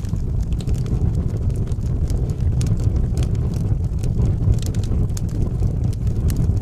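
Fire burning in a fireplace: a steady low rumble of flames with many small crackles and pops scattered irregularly through it.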